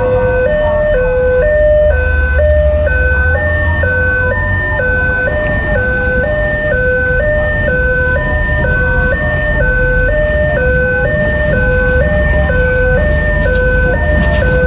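Railway level crossing warning alarm sounding a two-tone electronic signal that steps back and forth between a higher and a lower tone about once a second, over a low rumble.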